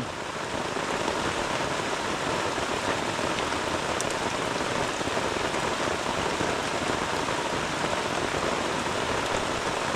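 Heavy tropical rain falling steadily: an even, dense hiss of rain that does not let up.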